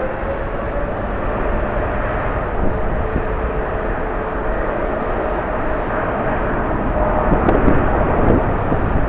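Jet airliner engines running with a steady whine, over a dense rumble of strong wind buffeting the microphone.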